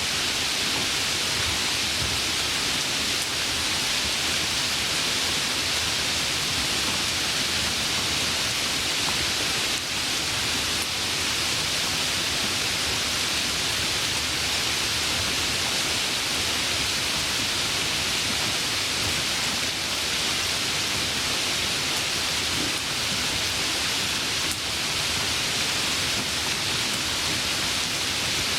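Steady heavy rain: a dense, even hiss of falling rain that does not change.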